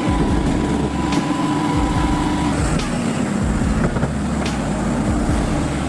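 Heavy vehicle's diesel engine running, a steady low drone with a held whine that drops to a lower pitch about two and a half seconds in.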